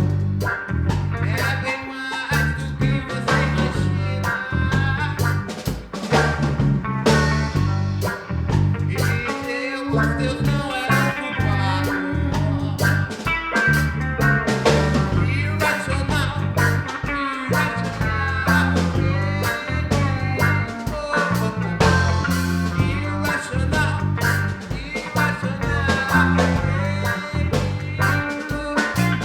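A band playing a song with electric bass, drums and guitar: a steady, repeating bass line under a dense, regular drum beat.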